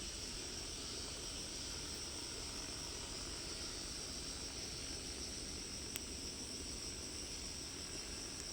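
Insects shrilling in a steady, unbroken high-pitched chorus, with a single sharp click about six seconds in.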